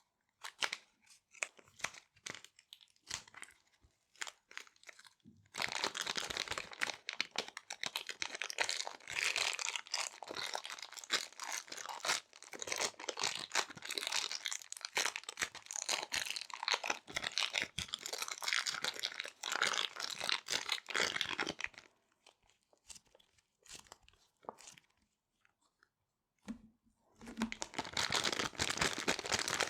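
Small resealable plastic bags being crinkled and crumpled by hand: sparse separate crackles at first, then a long stretch of dense, continuous crinkling, a few quiet clicks, and dense crinkling again near the end.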